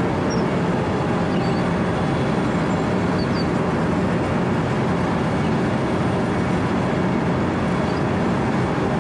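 Four-foot cold milling machine (Wirtgen W 120 CFi) running under load: diesel engine and rotating cutter drum grinding asphalt in a steady, unbroken noise.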